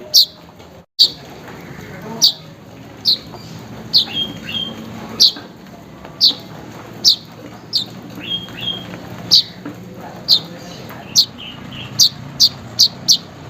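Weaver bird (manyar) calling: sharp, high, down-slurred notes about once a second, with softer short chirps between and a quicker run of four notes near the end.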